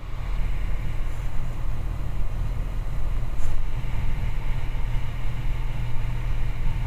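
Steady drone of a Socata TB20's six-cylinder piston engine and propeller heard inside the cockpit in level cruise, with an even rush of air noise.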